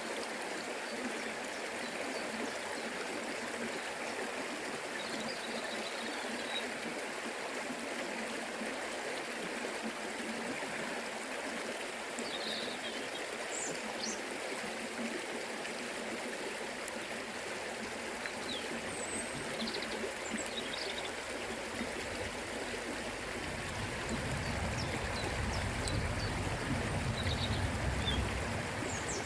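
Forest river flowing steadily, an even rush of water. A few faint high chirps sound now and then, and a low rumble rises in over the last five seconds.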